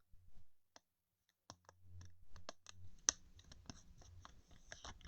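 Trading cards being handled and flipped through, making small irregular clicks and scratches, with a sharper snap about three seconds in.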